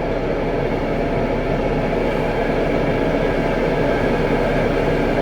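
Steady rumble and hiss inside a Jeep Wrangler's cabin, even throughout.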